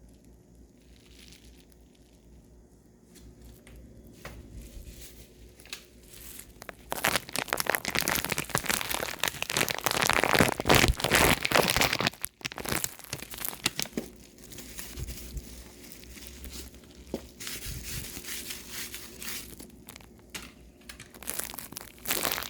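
Crumpling and crinkling, in irregular crackly stretches that are loudest for several seconds from about a third of the way in, then come back more weakly later. A faint steady hum runs underneath.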